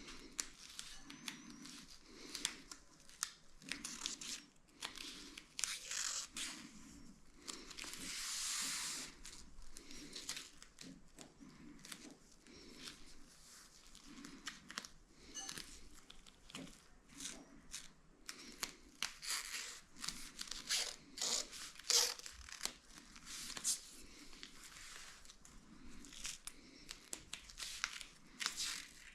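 Hands working the sealing-strip material: irregular rustling, crinkling and tearing noises, with one longer tearing sound about eight seconds in.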